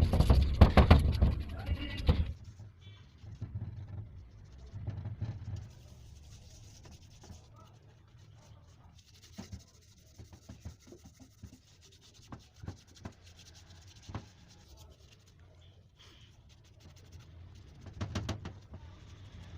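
Loud, rough noise for about two seconds, then scattered short scrapes, rubs and clicks of engine parts being brushed and handled, with a louder cluster of scraping near the end.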